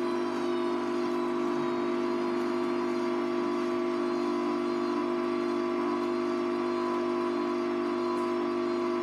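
Hoover Vision Tech VT 914 D22X washing machine's drum motor running during the wash, with a steady electric hum and whine that eases slightly down in pitch in the first second.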